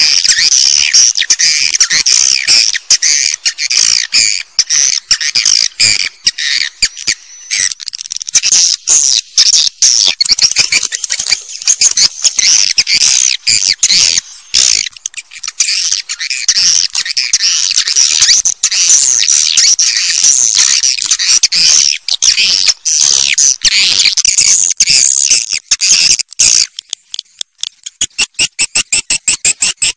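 A recording of swiftlets: dense, fast twittering chirps, high-pitched and mixed with many clicks. In the last couple of seconds it gives way to a quick, even train of clicks. It is a swiftlet calling sound of the kind played to lure swiftlets to a nesting house.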